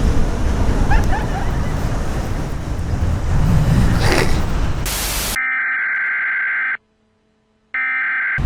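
Steady rushing beach-night noise for about five seconds, cut by a brief hiss, then a steady electronic tone like a phone busy signal, sounding twice with a second of dead silence between.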